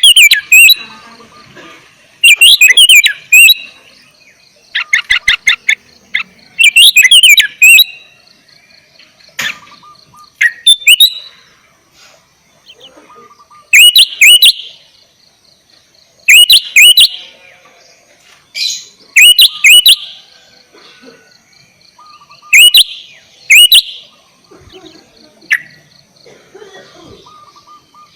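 Sooty-headed bulbul singing: short, bubbly phrases of loud whistled notes, repeated every two or three seconds, over a faint steady high buzz.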